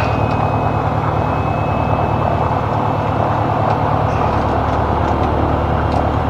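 Single-engine Piper Arrow's piston engine and propeller running steadily, heard from inside the cockpit, with a faint thin high whine over it that fades out about halfway through.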